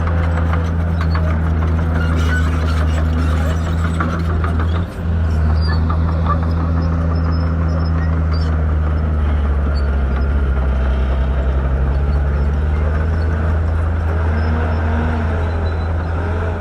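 Shantui bulldozer's diesel engine running steadily under load, with a brief dip about five seconds in and scattered light clicks and cracks over the first half.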